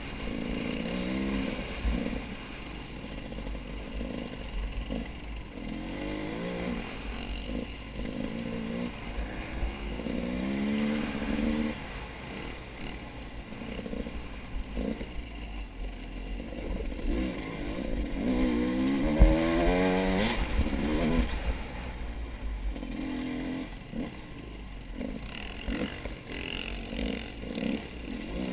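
A vehicle engine running over a low rumble, its pitch rising and falling again and again as it revs, with one bigger rising rev a little past the middle.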